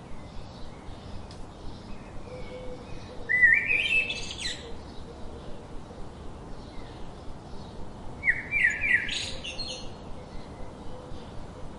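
A songbird singing two short phrases of quick notes that climb in pitch, about five seconds apart, with fainter bird chirps in between.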